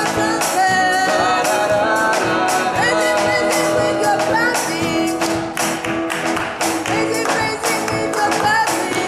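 Live church worship band music with a steady beat, a long held note underneath and a wavering melody line above it, with no words sung.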